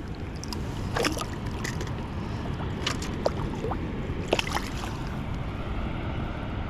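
Water sloshing around a kayak over a steady low rumble, with a few short clicks scattered through.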